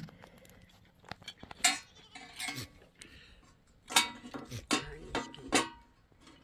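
Metal dishes and utensils being handled: a series of sharp clatters and clinks with a brief ring after each.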